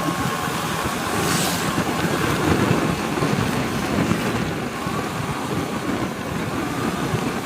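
Motorcycle riding noise: the engine running under wind rushing over the microphone, with road and traffic noise and a brief hiss about a second and a half in.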